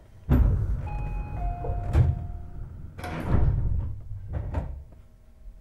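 Passenger sliding doors of a Tobu 50090 series train closing: a sudden loud burst from the door gear with a few short steady chime tones, a sharp knock, then a second burst with an air hiss as the doors shut.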